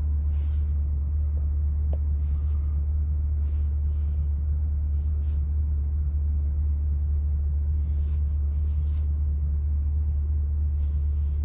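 2020 C8 Corvette's 6.2-litre V8 idling steadily at operating temperature, a constant low rumble heard from inside the cabin.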